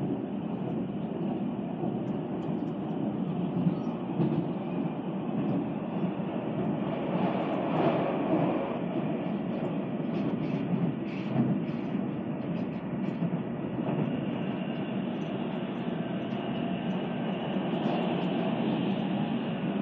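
Tobu Spacia limited-express train running at speed, heard from inside the passenger cabin as it passes through a station without stopping: a steady rumble of wheels on rail with faint scattered clicks.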